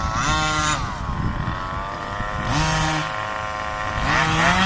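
Small two-stroke petrol engine of a 1/5-scale RC car revving in three short throttle blips, each rising and falling quickly, over a steady idle.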